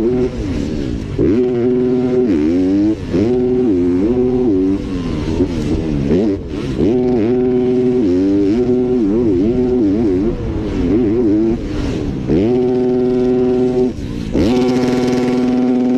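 Motocross dirt bike engine revving hard: the pitch climbs and holds at high revs for a second or two, then drops and wavers as the throttle is rolled off and blipped, several times over.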